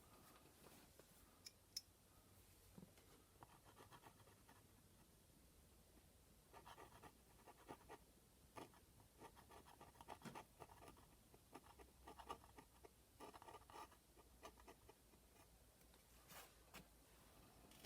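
Faint, irregular scratching and rubbing on a painted canvas as dried masking fluid is worked off the surface.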